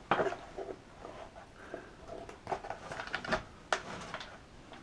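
Small parts and tools being handled on a workbench: scattered light clicks and knocks, the sharpest a little before four seconds in.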